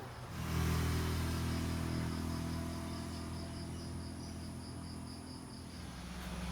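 A steady low hum, with a faint high chirping repeating about three times a second, like insects.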